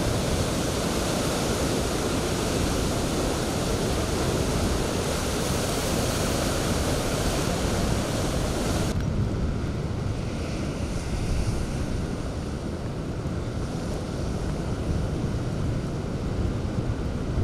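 Typhoon storm surf and strong wind: heavy waves crashing and wind buffeting the microphone in a dense, steady roar. About nine seconds in, the sound changes abruptly, losing its hiss and leaving a duller low rumble.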